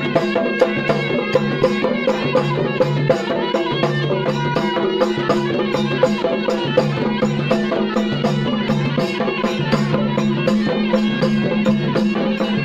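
Traditional folk music: a fast, steady drumbeat over a sustained drone and melody line.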